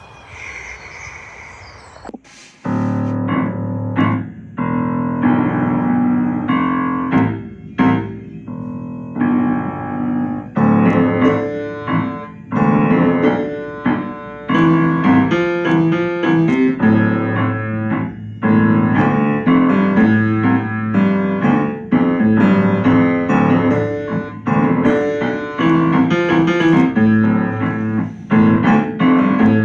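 Piano music, entering about two and a half seconds in with separate notes and growing busier after about ten seconds.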